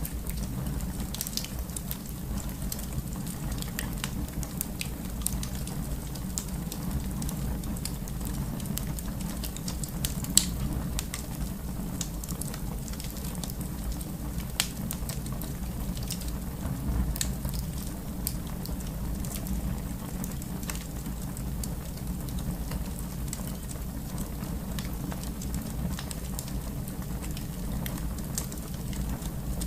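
Fire crackling in a fireplace: a steady low rumble from the flames with scattered sharp pops and snaps, one louder pop about ten seconds in.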